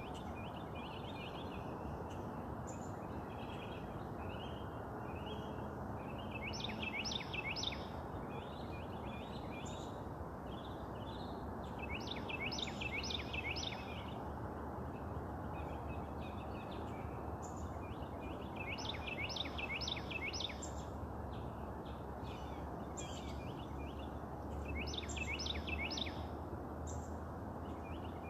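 A songbird repeating a short phrase of four or five quick, downward-slurred whistles about every six seconds, with softer chirps from other birds between, over a steady low rumble of background noise.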